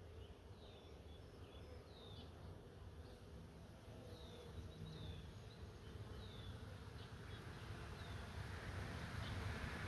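A colony of honeybees buzzing in a steady, wavering hum around an open hive as its frames are handled. The hum grows louder toward the end.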